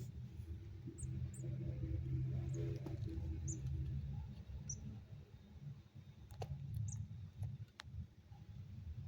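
Javan bush larks giving short, very high chirps, scattered about one a second, over a low steady hum, with a couple of sharp clicks in the second half.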